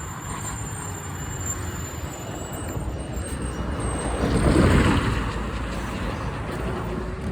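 A road vehicle driving past, growing louder to a peak about four and a half seconds in and then fading, over a steady low traffic rumble.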